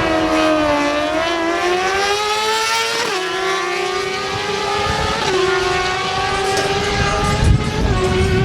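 Suzuki GSX-R600 sportbike's inline-four engine at full throttle down a drag strip, pitch climbing through each gear and dropping sharply at three upshifts, about three, five and eight seconds in.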